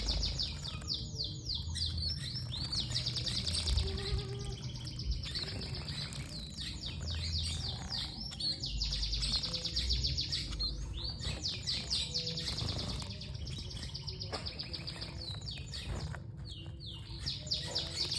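Songbirds chirping in fast runs of high, quickly repeated notes, in several stretches a few seconds long each.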